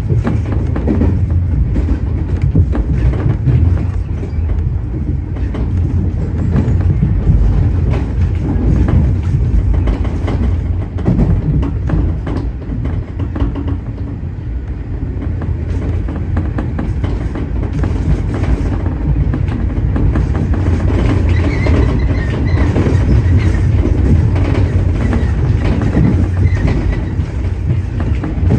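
Tobu 30000 series electric train running on the line: a steady low rumble of wheels on rail with the clickety-clack of the rail joints. A faint high tone joins in for a while in the second half.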